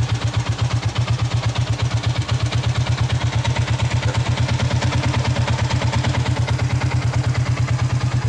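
Yamaha Sniper 150's single-cylinder four-stroke engine idling with a steady, even, rapid putter while its idle is being set.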